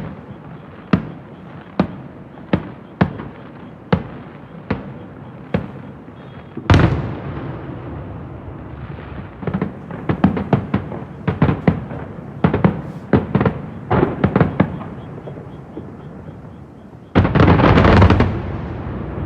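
Aerial fireworks shells booming about a kilometre away: a regular run of single booms a little under a second apart, a heavier boom about seven seconds in, then clusters of quick bangs, and a loud dense burst near the end.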